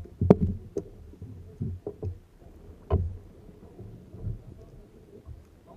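Kayak on the water: a low rumble of water with a few sharp knocks and splashes, the clearest about a third of a second and three seconds in.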